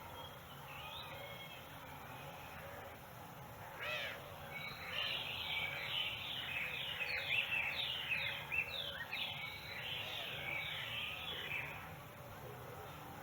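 A bird singing a fast, repeated series of short down-slurred whistled notes, starting about four seconds in and stopping a second before the end, over a faint steady background hum.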